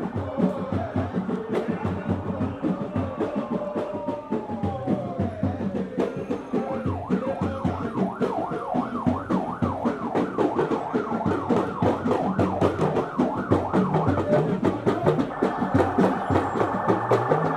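Sirens wailing, one slow falling wail about three seconds in, then several overlapping sirens cycling quickly up and down, over steady drumming.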